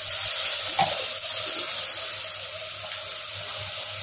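Steady sizzle of ground tomato frying in hot oil with the spice tempering in an aluminium pot, stirred with a steel ladle, with a light clink about a second in.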